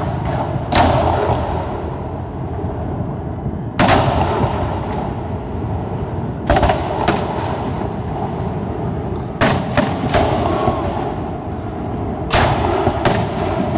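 Aerial firework shells bursting overhead: sharp bangs every few seconds, some in quick pairs, each one echoing, over a steady background din.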